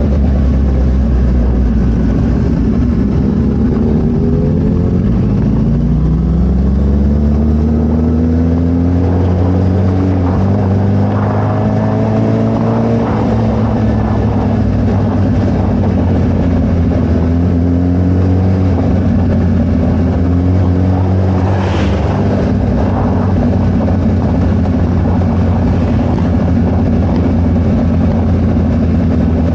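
Suzuki Hayabusa inline-four running through a Brock's carbon full exhaust system while being ridden. The pitch rises as it accelerates a few seconds in and again around eleven seconds, then holds fairly steady.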